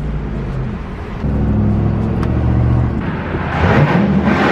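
Car engine running steadily, then revving up with a rising surge near the end.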